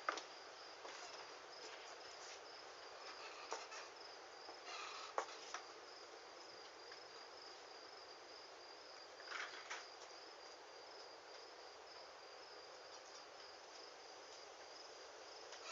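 Cricket chirping steadily, a fast pulsing high-pitched tone, over a faint even hiss, with a few sharp ticks, the loudest about five seconds in.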